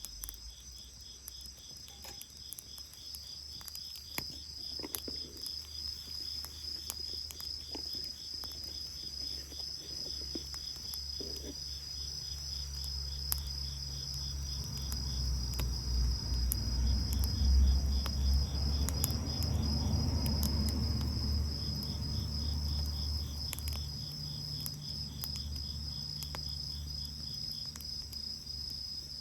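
Crickets chirping in a steady, rapid pulsing trill, with occasional faint crackles from a wood bonfire. A low rumble swells up about halfway through and fades away again.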